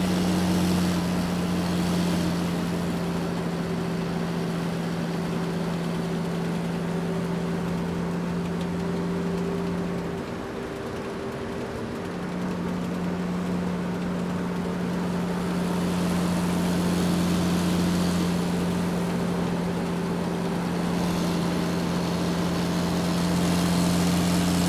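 Garbage truck engine idling steadily, a low even hum that eases off briefly about ten seconds in and then runs on.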